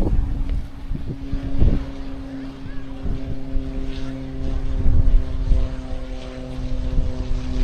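A steady engine drone holding one pitch, with wind gusting on the microphone.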